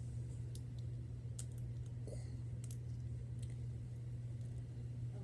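Scattered small clicks and taps of a plastic fashion doll being handled while a rubber band is wrapped around its waist, over a steady low hum.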